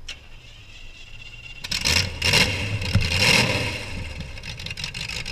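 Demolition derby car engine: a low rumble, then it catches and revs hard about one and a half seconds in, with two loud noisy surges before settling back.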